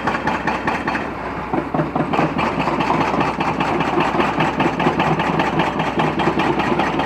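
An engine running steadily at idle, with a fast, even pulsing.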